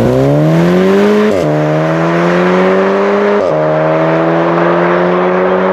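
Turbocharged four-cylinder hot-hatch engine under full-throttle acceleration, heard onboard. Its pitch climbs steadily and drops abruptly at two quick upshifts, about a second and a half in and again past three seconds, each gear pulling longer than the last.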